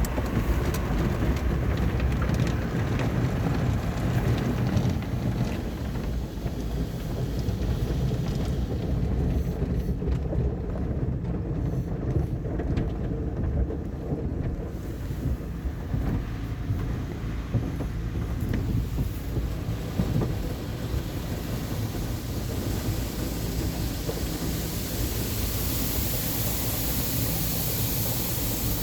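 Automatic car wash at work: water spraying and drumming on the car over a steady low machinery rumble. A brighter hiss builds over the last few seconds.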